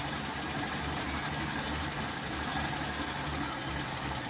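Rural Willys six-cylinder engine idling with its hood open, while the carburetor is being worked on by hand.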